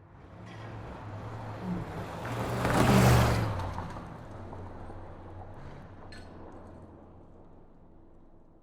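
A car passing by: engine and tyre noise build up, are loudest about three seconds in, then fade away slowly.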